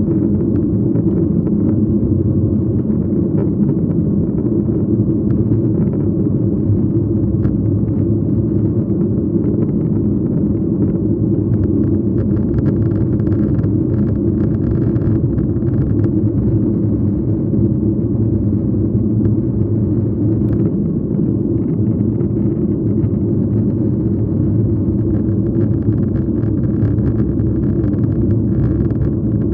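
Airliner cabin noise: a steady, loud, low rumble of the aircraft's engines and airflow heard from inside the cabin at the window seat.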